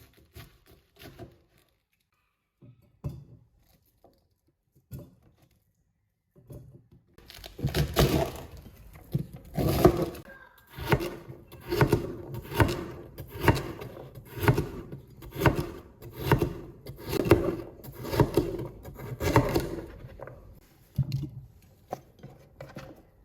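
Household handling sounds: a few light clicks and knocks, then a long run of rhythmic strokes at roughly one a second that fade out near the end.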